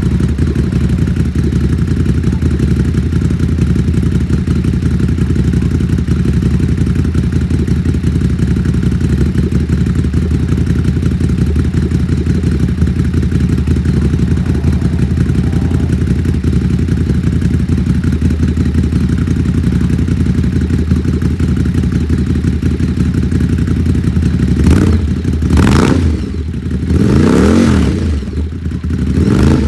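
Ducati 939 SuperSport S's L-twin engine idling steadily with a deep, loud growl through a de-catted Competition Werkes exhaust. In the last five seconds it is revved in several quick throttle blips, each rising and falling.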